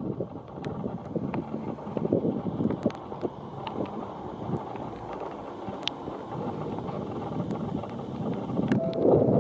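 Typhoon wind gusting against the microphone, a rough low rumble that rises and falls, with scattered sharp ticks of rain. Near the end the sound swells and a steady tone comes in.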